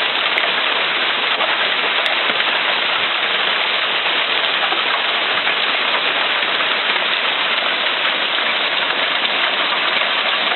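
Hailstorm: hail and heavy rain pelting down in a dense, steady patter.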